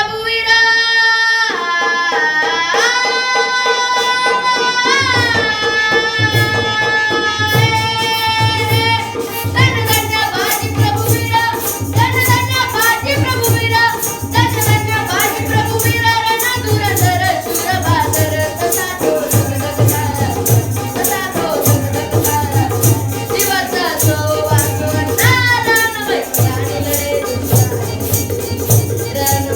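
A boy singing a Marathi powada ballad, opening on a long held note that bends up a few seconds in, then moving into ornamented sung phrases. A steady drum beat joins about five seconds in, with jingling percussion over it.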